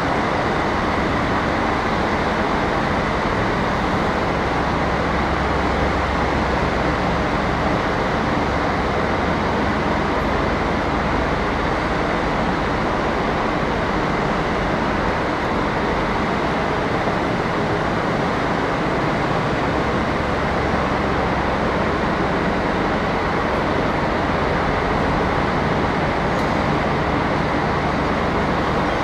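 Steady railway noise from a train: an even rumble and hiss that keeps one level throughout, with no separate knocks, horns or announcements.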